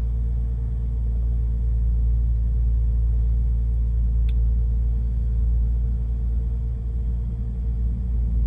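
Porsche 911 Carrera 996's water-cooled 3.4-litre flat-six engine idling steadily while still cold, a deep even rumble with no revving. A brief faint click sounds about four seconds in.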